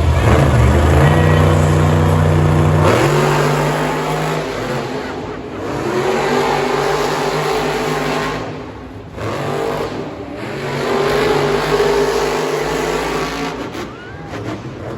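Monster truck engines revving loud, the pitch rising and falling in several swells. The sound is loudest in the first few seconds and eases near the end.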